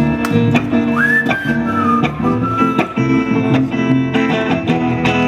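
Live band music: a whistled melody slides up about a second in and holds high notes, over guitar chords and a steady drum beat.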